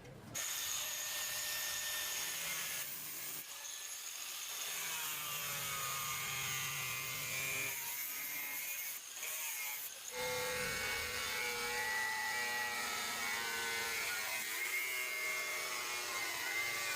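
A power tool working on a refrigerator's metal body, a steady grinding hiss with whining tones that shift in pitch as it is pressed on. It starts suddenly, eases briefly twice, then runs on.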